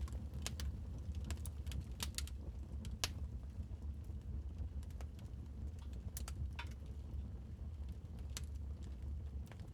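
Wood fire crackling in a fireplace: irregular sharp pops and snaps, the loudest about three seconds in, over a steady low rumble of the burning fire.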